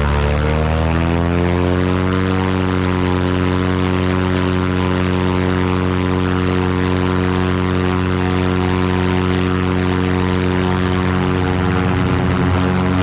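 Cessna 337 Skymaster's two 210-horsepower Continental piston engines and propellers rising in pitch over the first two seconds as power comes up for take-off, then running steadily at high power.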